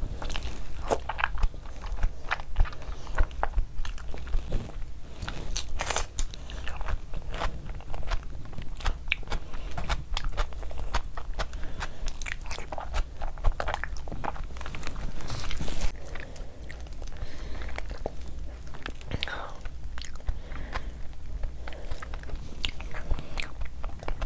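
Close-miked eating sounds: wet chewing and biting on fufu and spicy chicken curry taken by hand, with many small mouth clicks and occasional crunches.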